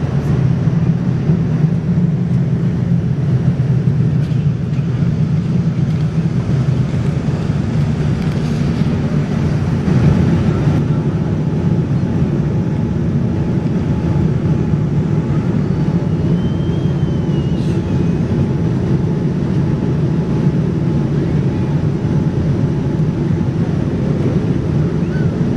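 Steady jet engine and airflow rumble inside the cabin of a Boeing 787-9 Dreamliner, even throughout, with a faint steady tone above the rumble.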